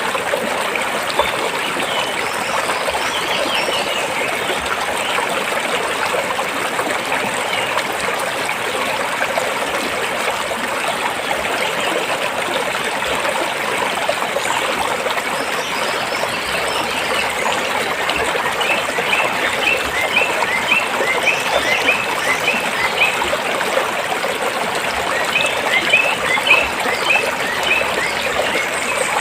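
Stream water flowing and trickling steadily over rocks. Runs of short, quick chirps sound over it twice in the second half.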